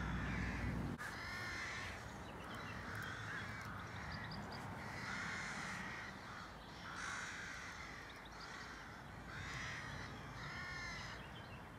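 Birds calling outdoors: a string of harsh, arched calls, roughly one a second. A low rumble underneath cuts off about a second in.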